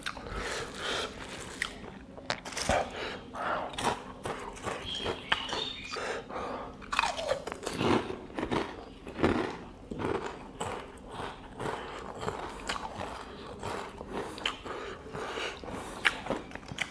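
Close-miked mouth sounds of a person eating by hand, chewing and crunching through rice, chicken curry and potato chips, in irregular crisp clicks and wet chews.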